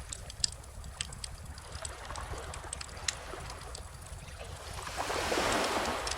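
Wood bonfire crackling with scattered sharp pops, over a low steady rumble. A gentle ocean wave washes in, swelling about four and a half seconds in and fading near the end.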